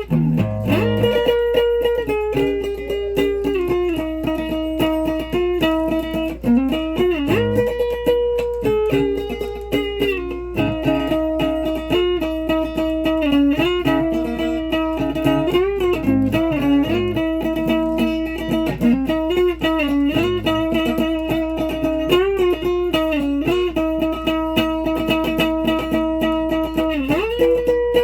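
A guitar plays a slow melody of held notes that bend and slide between pitches, over a steady low hum.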